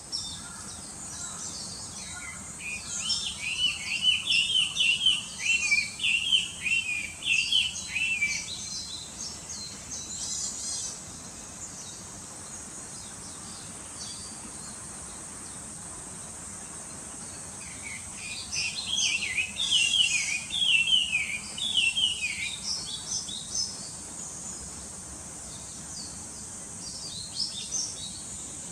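Birds chirping in two long bouts of rapid, varied notes, over a steady high hiss.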